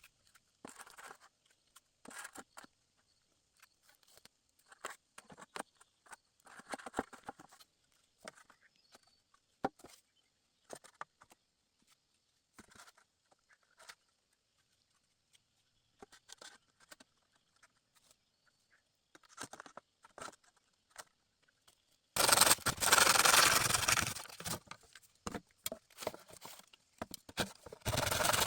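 Scattered light knocks and rustles with quiet gaps between them. About 22 seconds in, a much louder, dense scraping starts and goes on with short breaks.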